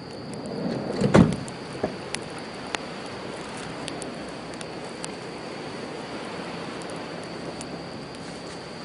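Campfire crackling with sharp pops scattered throughout, over a steady wash of sea waves. About a second in, a louder rush swells up and ends in a heavy knock, the loudest moment.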